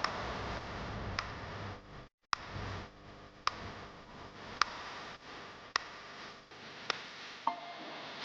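Sharp, evenly spaced ticks, about one a second, over a faint steady hiss. The sound cuts out completely for a moment about two seconds in.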